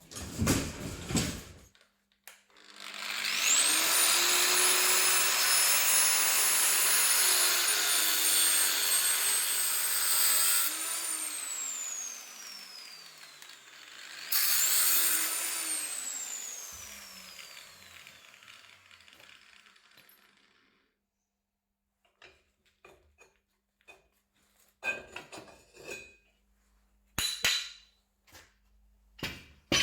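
A handheld power tool spins up with a rising whine, runs steadily for about eight seconds, then winds down with a falling pitch. It is started again for a short burst and winds down once more, and a few light knocks follow near the end.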